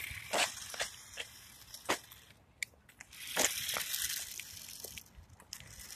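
A micro 4WD RC short course truck driven over rough, gritty ground: scattered crunches and sharp ticks, with two spells of hissing grit, briefly near the start and for about a second midway.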